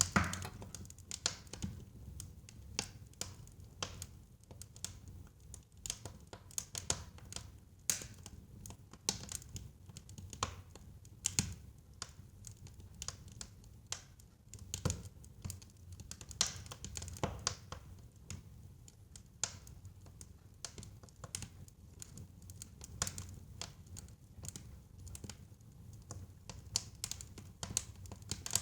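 Wood fire crackling in a fireplace: a dense run of irregular sharp pops and snaps over a low rumble of the flames.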